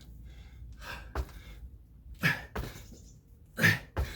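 A man's heavy breathing after hard exertion: short, forceful exhales, the two loudest about a second and a half apart in the second half, as he catches his breath.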